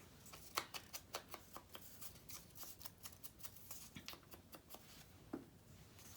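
Paper and card being handled at a craft table: faint light rustling with many small irregular clicks and taps, a couple of them sharper, about half a second in and again near the end.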